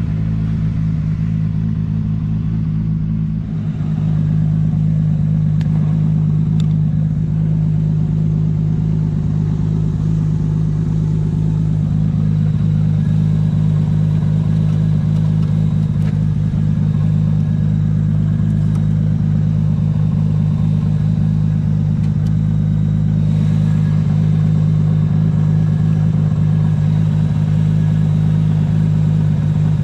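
Nissan S15 drift car's engine idling steadily, an even low drone that holds one pitch without revving.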